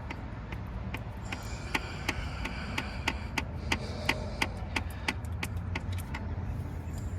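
Ratchet wrench clicking in irregular strokes, about three sharp ticks a second, as 10 mm bolts are backed out of the alternator bracket, over a steady low hum.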